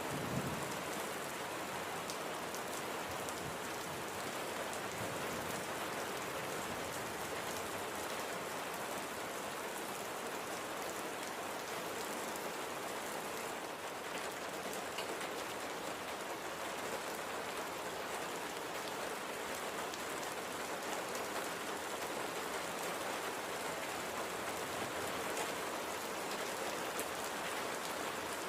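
Steady, light rain falling on a surface, an even hiss of drops with fine individual drop ticks. A brief low thump comes just after the start.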